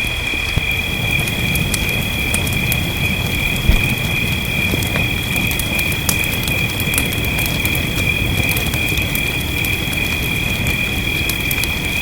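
Wood fire crackling with scattered sharp pops over a low rumble, under a steady high-pitched trill held on two even tones. A single low thump comes a little under four seconds in.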